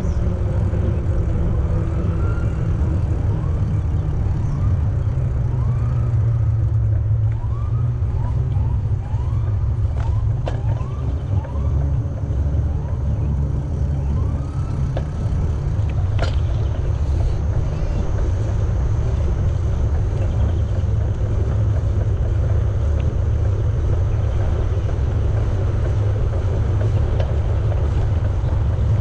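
Steady low rumble of wind and rolling noise on the microphone of a moving bicycle. In the first half it is joined by a string of short rising chirps and a few sharp clicks.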